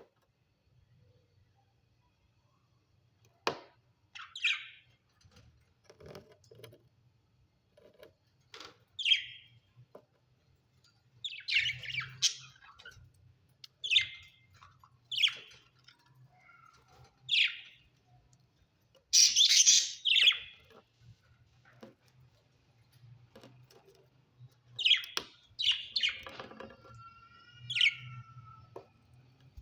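Budgerigars chirping in short, scattered calls with gaps between them, with a louder burst of chatter about two-thirds of the way through.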